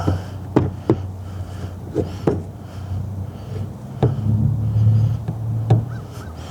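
About six sharp clicks and light knocks at irregular spacing, from small parts and tools being handled, over a steady low hum.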